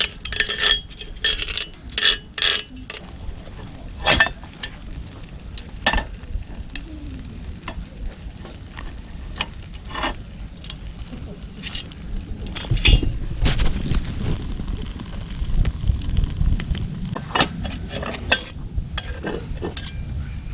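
Cooking at a campfire: irregular clinks, knocks and scrapes of metal utensils against cast-iron skillets, with food sizzling. The knocks come thickest in the first few seconds.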